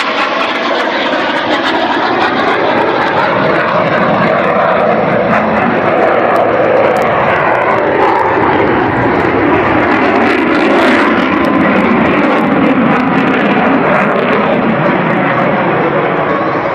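Propeller aircraft engines running loud on a pass overhead, a steady drone whose pitch slides slowly down as the plane goes by.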